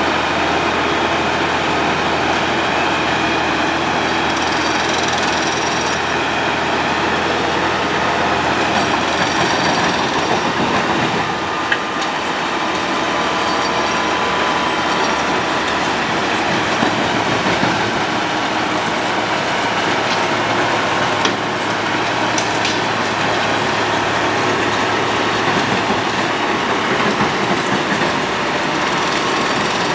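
Road planer milling asphalt off the road surface: a loud, steady grinding din over the hum of its diesel engine, with a few sharp knocks in the second half.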